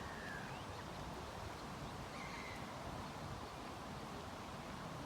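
Outdoor ambience: a steady hiss with a few faint, short bird calls, two of them about two seconds apart.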